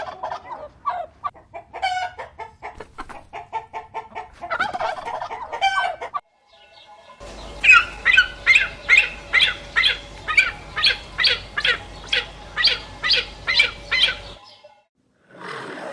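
Chickens clucking in short, irregular calls. About a second after a break, a second run of evenly spaced calls follows, between two and three a second, which stops abruptly shortly before the end.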